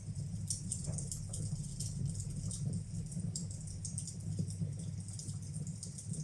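Wood fire burning in a fireplace: irregular small crackles and pops, over a steady low rumble.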